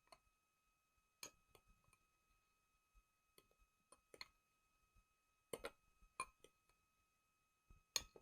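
Faint, scattered clicks and taps of a fork against a plate while banana batter with cocoa is being stirred, the loudest a little past halfway and near the end.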